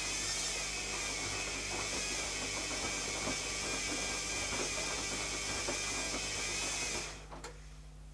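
Zanussi ZKN7120L washing machine running mid-cycle: a steady hiss over a low hum with many small rattling clicks. The hiss cuts off abruptly about seven seconds in, then there is a single click and only a low hum remains.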